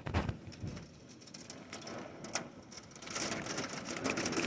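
Hail and rain pelting down, a dense patter of small hits that grows louder about three seconds in.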